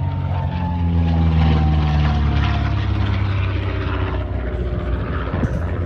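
Propeller engines of a de Havilland DH88 Comet, its twin Gipsy Six R six-cylinder engines, running as the aircraft flies past. The engine note drops steadily in pitch as it passes, is loudest about a second or two in, then settles into a steadier drone.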